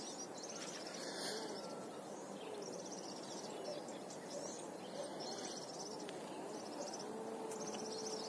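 A small bird singing short, high trills every second or two, over a steady low outdoor rumble.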